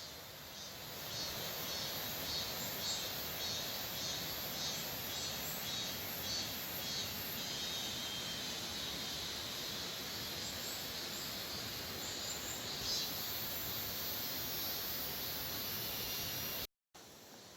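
Mountain stream flowing steadily, with high chirps from a small animal repeating about twice a second through the first half and again briefly later.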